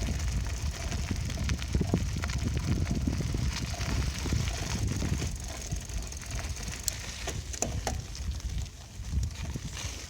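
Bicycle being ridden, with wind buffeting the microphone as a steady low rumble, tyre and frame noise, and scattered sharp clicks and rattles.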